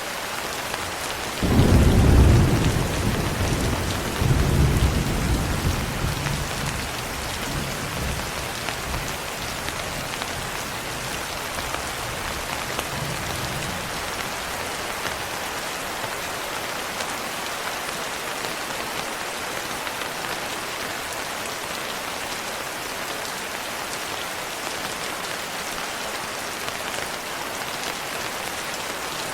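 Steady rain falling on a window. About a second and a half in, thunder cracks into a deep rumble, swells again around four seconds, and dies away over the next several seconds. A fainter rumble follows a little later.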